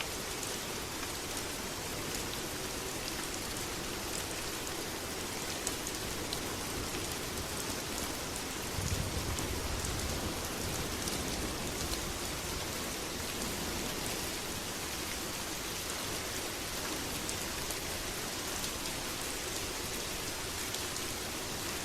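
Steady heavy rain, a dense hiss with scattered drop ticks. A low rumble swells in underneath about nine seconds in and fades gradually.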